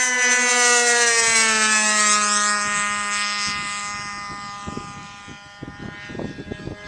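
Radio-controlled model airplane making a low pass: its engine's whine drops in pitch as it goes by, loudest about a second in, then fades away. Uneven gusts of wind rumble on the microphone near the end.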